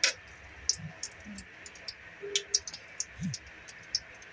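Breaded chicken cordon bleu rolls shallow-frying in hot oil: a steady sizzle with scattered crackles and pops. Metal tongs click against the food and pan, with one sharp click right at the start.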